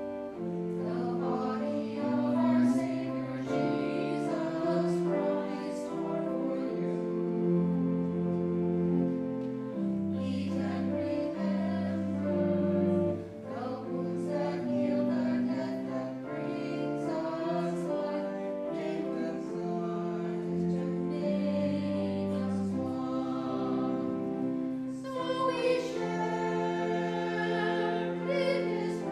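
Slow church music: sustained keyboard chords changing about once a second, with singing voices over them.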